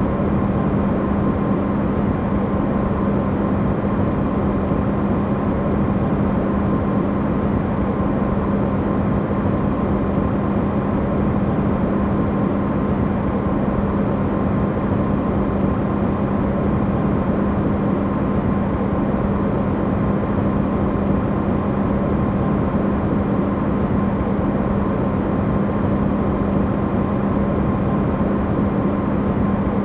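Amplified hum of an Electrolux refrigerator running, used as white noise: a strong steady low hum with a fainter higher tone over an even rushing noise, unchanging throughout.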